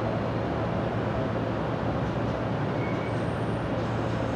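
Electric commuter train running along the track, heard from inside the front cab: a steady rumble of wheels and running gear with a faint motor hum.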